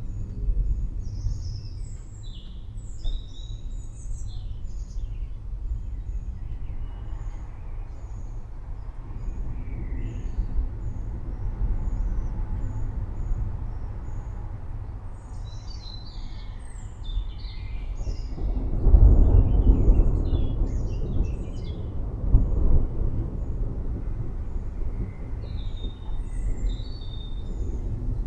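Thunder rumbling low and continuously, swelling into a louder roll about two-thirds of the way through, while birds chirp repeatedly.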